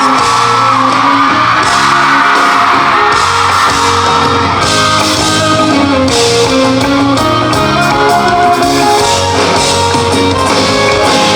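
Live rock band playing an instrumental passage with electric guitar, amplified and echoing in a large concert hall, with shouting from the crowd.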